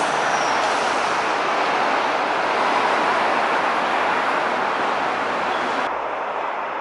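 Hanshin Main Line local train running away into a tunnel portal, a steady rushing noise of wheels on rail mixed with road traffic. Near the end the sound drops abruptly to a slightly quieter, duller noise.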